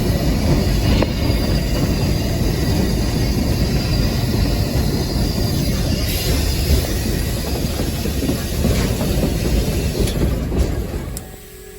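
Steam locomotive under way, heard from the cab: a steady loud rumble of running gear and wheels on rail, with a few sharp clicks. Near the end it cuts off suddenly to a quiet steady hum.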